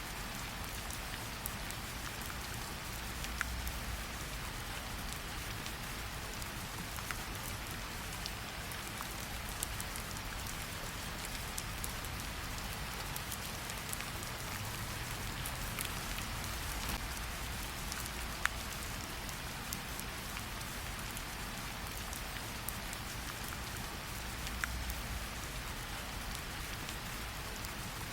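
Steady rain falling, mixed with a wood fire whose sharp pops and crackles come every few seconds over the rain's even hiss.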